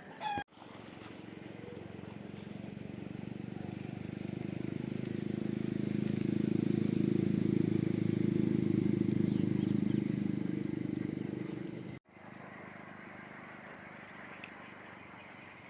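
A motor engine running with a steady low hum that grows louder over several seconds, then cuts off abruptly about twelve seconds in, leaving quiet outdoor ambience.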